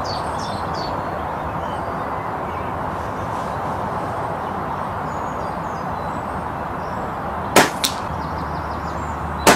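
Brocock Concept PCP air rifle firing a single shot about three-quarters of the way in, followed a fraction of a second later by a fainter smack of the pellet striking the target, over steady wind noise on the microphone. Another sharp click comes near the end.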